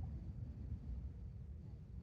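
Faint, steady low rumble of outdoor background noise, with no firework bursts.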